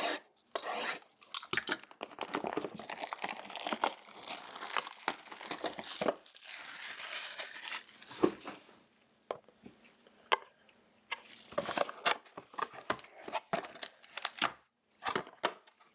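Plastic wrapping on a box of football trading cards being torn open and crumpled: a dense crackling run for about eight seconds, a short lull, then more crinkling and sharp crackles.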